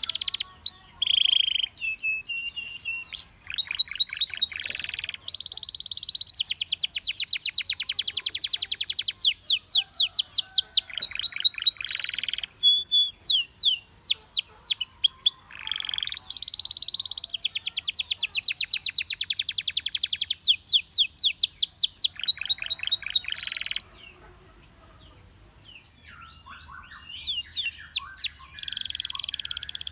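Canary song: fast trilled rolls and rattling tours mixed with short held whistled notes, nearly unbroken. About 24 seconds in it drops to a brief lull, then soft scattered chirps come before the trilling starts again near the end.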